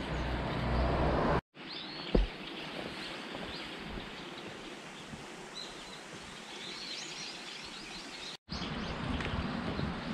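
Outdoor ambience: a steady hiss with small birds chirping now and then, high and brief, and a single sharp knock about two seconds in. The sound drops out briefly twice.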